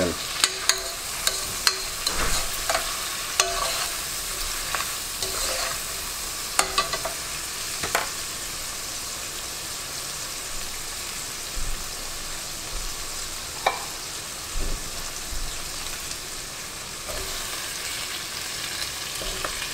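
Onion, garlic, ginger, chili and lemongrass sizzling steadily in hot oil in a pot. For the first several seconds a spatula scrapes and knocks against the pot as the aromatics are stirred, and a few separate knocks follow later.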